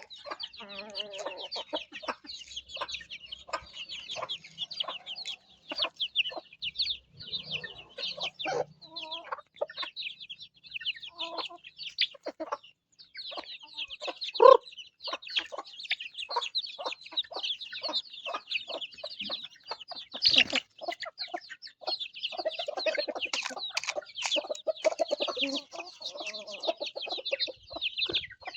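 Many chicks peeping continuously in a dense, rapid chorus, with a hen clucking lower among them. One louder cluck about halfway through.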